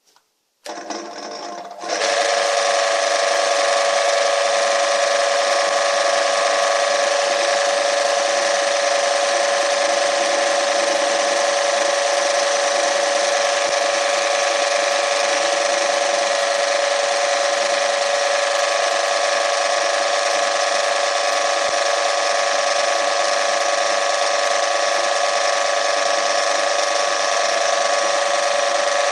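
An electric motor starting up about half a second in, then running steadily at full speed from about two seconds on, with a loud whirr made of several steady tones over a hiss.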